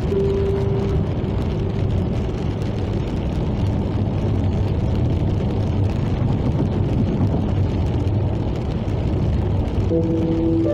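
Steady low rumble of a car driving along the road. A few held music notes fade out in the first second, and music comes back in near the end.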